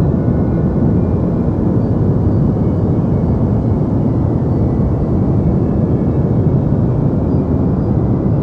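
Steady, unchanging deep noise for sleep, a continuous low rumbling hiss with most of its energy in the low range and little treble.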